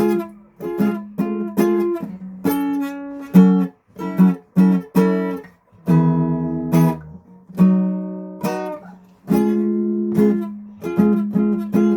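Acoustic guitar strummed in a loose, uneven run of chords, some struck quickly one after another and some left to ring out, with short breaks between phrases.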